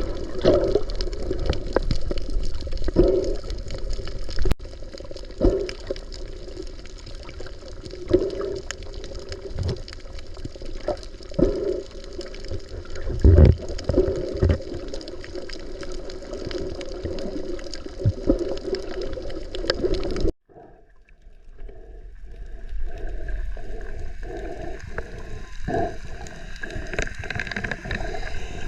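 Water gurgling and sloshing around a snorkeler's camera, in surges every two to three seconds. It breaks off abruptly about two-thirds of the way in and gives way to a steadier water noise with a faint rhythmic pulsing.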